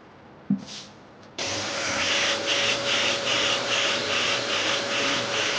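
A powered sander with dust extraction switches on about a second and a half in and runs steadily, with a rhythmic swish of strokes across the panel, knocking down body filler with 80-grit paper. A short knock comes just before it starts.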